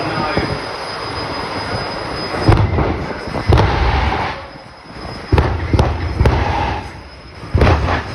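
Jet car's turbine engine running with a steady noise and a thin high whine, then a string of loud booming afterburner bursts, about six over five seconds, each dying away quickly.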